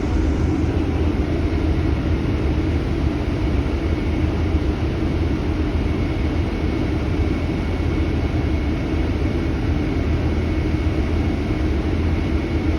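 Steady low vehicle rumble and hum with no distinct events, and a faint high-pitched whine joining about two seconds in.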